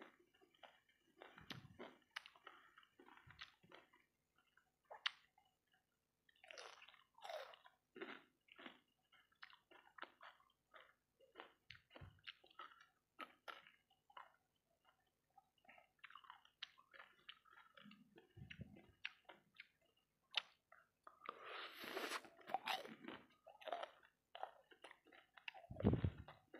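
Close-miked eating: bites into skewered deep-fried rice balls, then chewing with short, irregular crunchy clicks. A denser run of chewing comes about three quarters of the way in.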